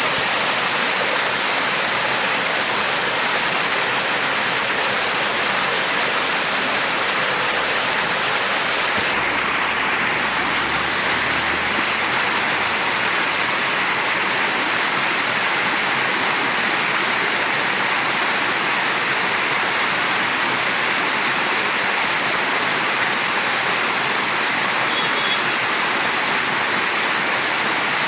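Mountain stream rushing steadily over rocks, a loud even hiss of flowing water.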